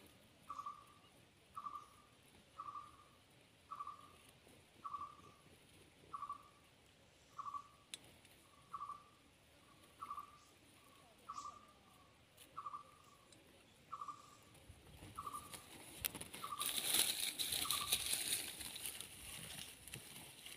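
A bird's short call repeated evenly about once a second, some sixteen times, stopping about three-quarters of the way in. Then loud rustling of dry grass and stems close by.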